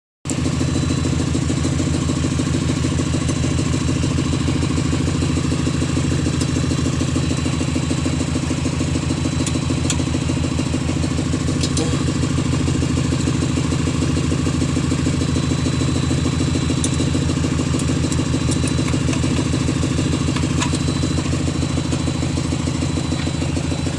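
An engine idling steadily with an even, rapid throb that does not change in speed.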